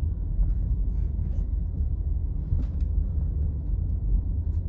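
Steady low rumble of a vehicle ride, with a few faint clicks.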